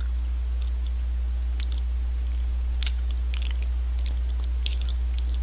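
Steady low electrical hum, with a few faint short clicks scattered through it from a man chewing soft yanggaeng, a sweet red-bean jelly.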